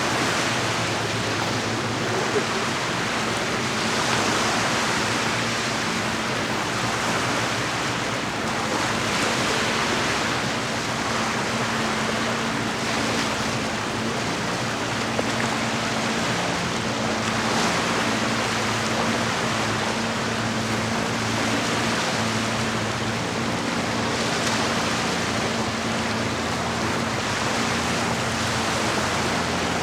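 Lake water washing against the shore in a steady rush that swells every few seconds, with a faint steady low hum underneath.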